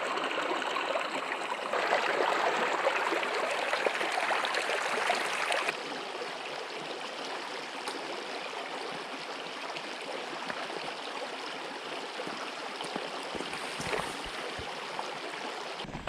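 Creek water flowing steadily, a dense rushing hiss. It grows louder about two seconds in and eases back to a softer, steady flow about six seconds in.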